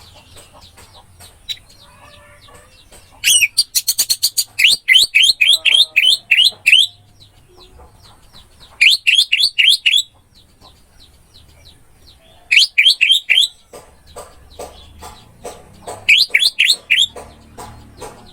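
Orange-headed thrush singing: four loud bursts of fast, repeated down-slurred whistled notes, the first and longest lasting about three seconds, with fainter chirps between the bursts.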